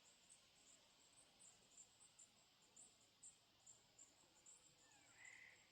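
Faint insects chirping in an even series of high chirps, about three a second, over quiet outdoor ambience, with one short call near the end.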